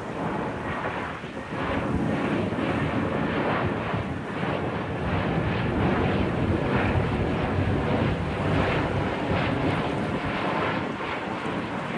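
Jet rumble of an Airbus A380's four Rolls-Royce Trent 900 engines on final approach. The rumble is low and steady, grows louder about two seconds in, and has wind buffeting the microphone.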